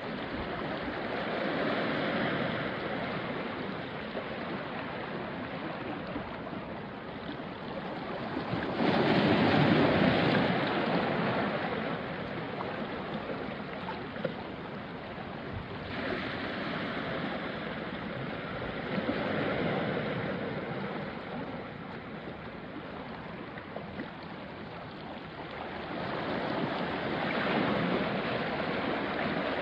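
Small sea waves washing onto a rocky shore, swelling and draining away in a slow cycle of surges every several seconds; the biggest surge comes about a third of the way in.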